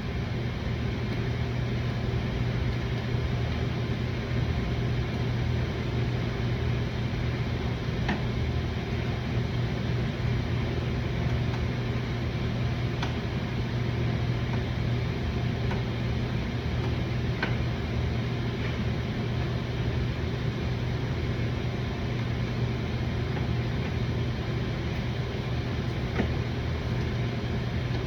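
Steady low mechanical hum, with a few faint single clicks from small parts being handled.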